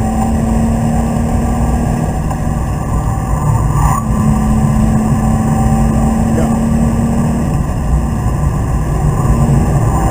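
BMW Z3 2.8's straight-six engine running at steady revs, heard from inside the cabin under heavy road and wind noise.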